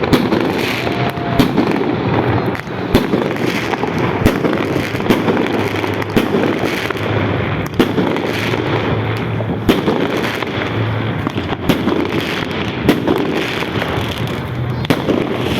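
Fireworks going off without pause: a dense, constant din broken by sharp bangs at irregular moments, often more than one a second.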